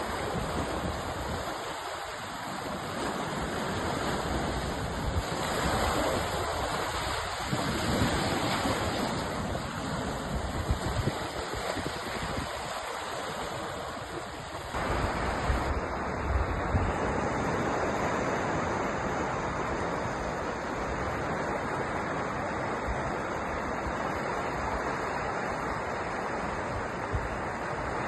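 Sea waves and surf washing in a continuous rush of noise that swells and eases. About halfway through, the sound changes abruptly to a slightly different, steadier surf.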